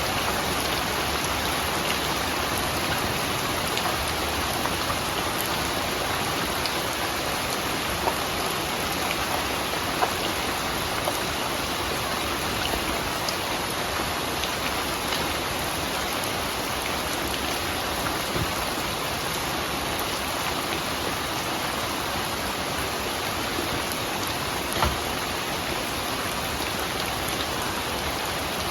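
Steady rain falling, an even hiss with scattered louder drops striking close by, a few standing out about a third of the way in and again near the end.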